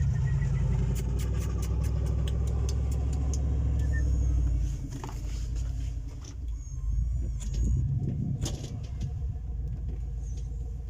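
A motor vehicle's engine running close by, loud and steady for the first four or five seconds, then easing off and revving up briefly again about eight seconds in.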